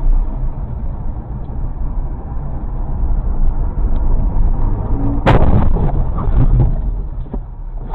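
Car collision recorded from inside the dashcam car: steady road and engine noise, then a loud sudden crash about five seconds in, followed by a brief clatter.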